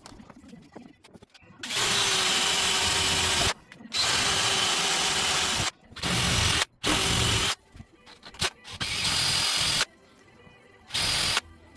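Small paint spray gun spraying two-pack paint in bursts: a steady hiss of compressed air that starts and stops abruptly as the trigger is pulled, about six bursts of one to two seconds each.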